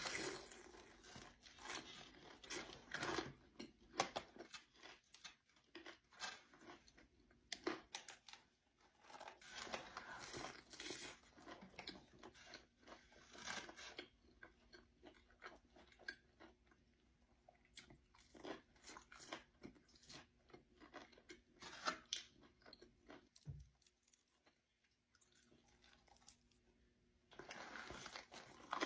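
Close-miked eating: repeated bites and crunchy chewing in irregular bursts.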